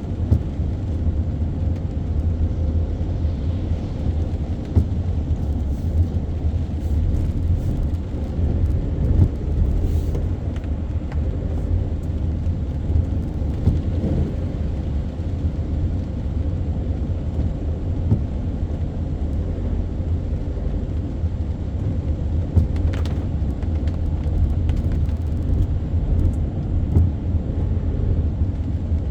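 Car driving on city streets: a steady low rumble of engine and tyres, with a few faint ticks scattered through it.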